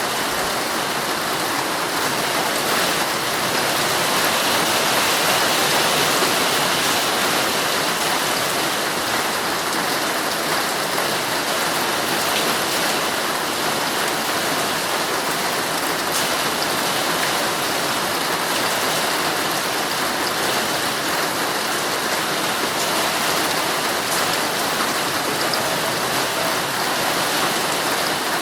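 Heavy rain falling steadily on a tent, a dense even patter with a few sharper drop ticks now and then.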